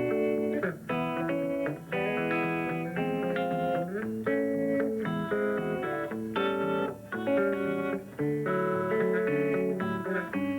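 Guitar music in the Muhlenberg County thumbpicking style: a continuous run of plucked notes with a steady bass and melody over it.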